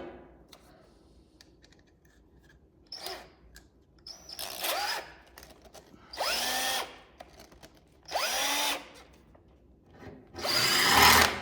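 Power drill run in five short bursts of about a second each, the first faint. The motor whines up in pitch at each trigger pull, as when drilling holes to mount a car's front spoiler.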